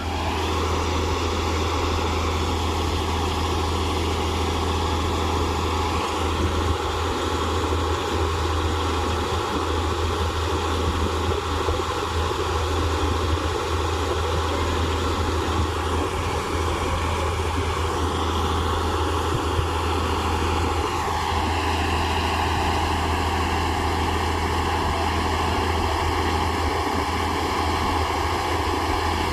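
Wheat harvester's engine and machinery running steadily with a strong low hum. Its pitch drops a little about two-thirds of the way through.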